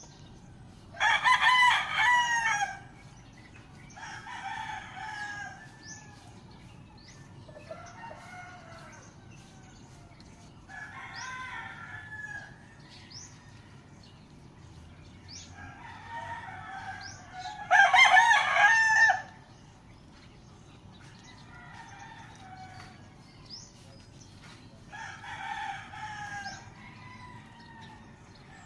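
Roosters crowing: two loud crows, about a second in and again about eighteen seconds in, with several fainter crows in between. Faint short chirps of small birds run throughout.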